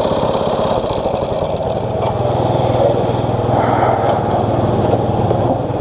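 Rental kart's 6.5 hp single-cylinder four-stroke engine running steadily, with a steady low hum joining about two seconds in.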